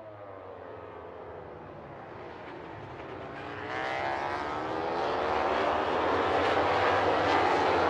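Engines of a pack of racing motorcycles, several pitches bending and gliding against each other, growing steadily louder as they approach.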